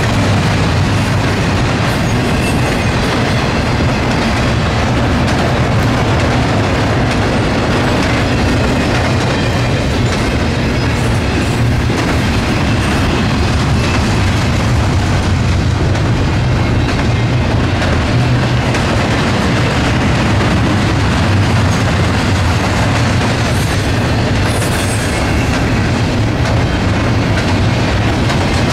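Norfolk Southern freight train rolling past: a steady, loud rumble and clatter of railcar wheels on the rails.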